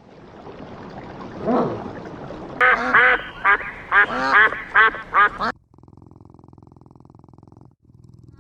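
Duck quacking, first a single call and then a rapid run of about ten quacks. The quacks stop suddenly and are followed by a steady low buzz lasting about two seconds.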